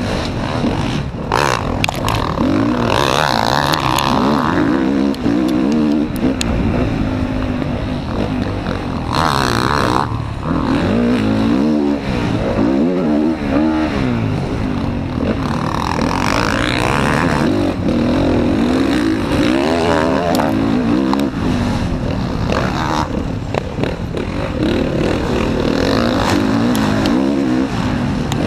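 Motocross bike's engine running hard and revving up and down over and over as the throttle opens and closes, heard from an onboard camera with wind rush and chassis clatter over the track.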